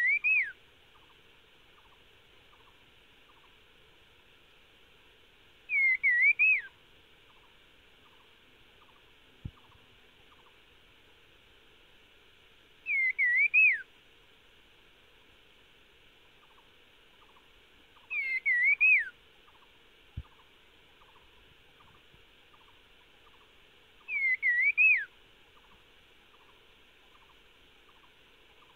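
A caged red-headed bird calling, a short phrase of three or four quick rising-and-falling whistled notes about every six seconds, five times. A faint steady ticking runs underneath, with two soft clicks.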